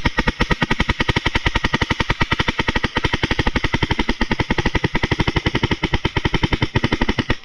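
Paintball marker firing a continuous rapid stream of shots, about ten a second, for some seven seconds before stopping abruptly; really loud.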